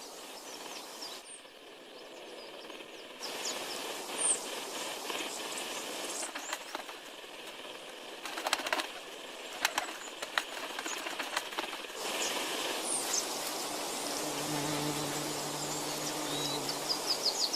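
Hummingbird wings whirring, with a few short high chirps and scattered clicks. A steady low hum comes in near the end.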